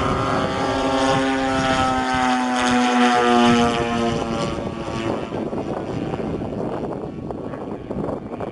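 Radio-controlled model airplane in flight, its motor and propeller droning at one pitch that sinks slightly, then fading away about four and a half seconds in, leaving rough background noise.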